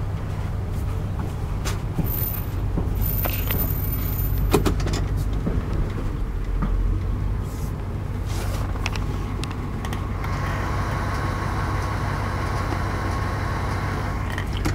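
Car running, heard from inside the cabin: a steady low engine and road rumble, with a few light clicks.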